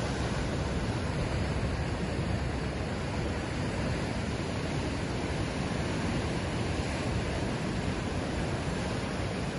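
Ocean surf washing steadily, a continuous even rush of water with no single wave breaking out above the rest.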